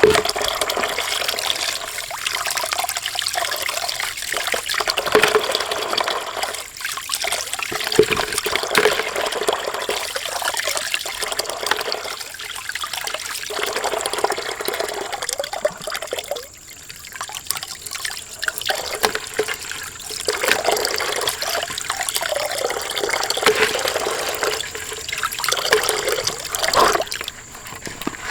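Water running and splashing unevenly, swelling and easing in irregular surges.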